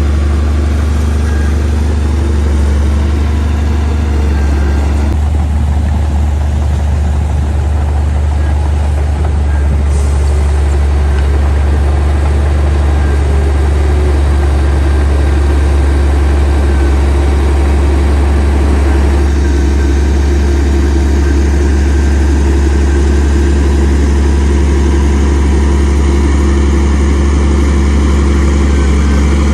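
Heavy diesel engine of earthmoving machinery running steadily, with a loud, unbroken low drone.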